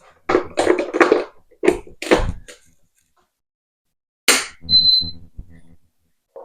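A run of handling knocks and thuds on a new air fryer, then after a pause another knock and a single short, high electronic beep from its control panel, the sound it gives when plugged in or a button is pressed.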